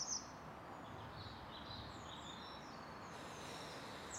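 Birds chirping over a steady outdoor background hiss: a quick run of short, high, falling chirps at the start and again near the end, with softer chirps in between.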